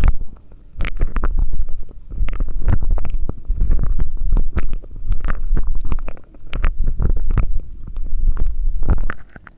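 Close-miked ASMR mouth sounds: low rumbling bursts come about every second and a half, with sharp clicks and crackles in each burst.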